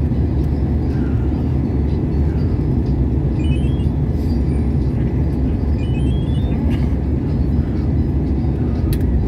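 Steady low rumble of an airliner cabin: jet engine and airflow noise heard from a passenger seat.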